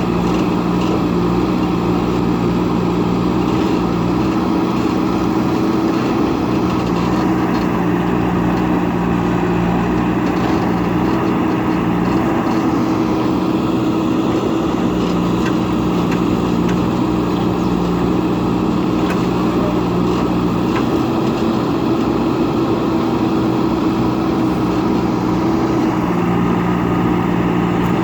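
JCB backhoe loader's diesel engine running steadily with a constant hum.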